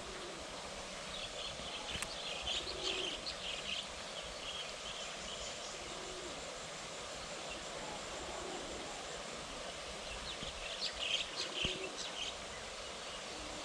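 Birds calling outdoors: two spells of quick, high chirps, one a second or so in and another near the end, over a steady background hiss.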